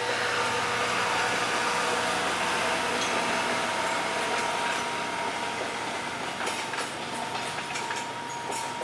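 A train running by with a steady hum and hiss; from about six and a half seconds in, a quick run of clicks comes in as its wheels pass over the rail joints.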